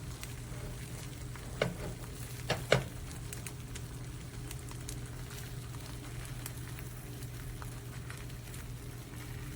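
Eggs frying on a hot hybrid nonstick griddle, a faint steady sizzle over a low hum. Three sharp clicks of a spatula against the pan come within the first three seconds.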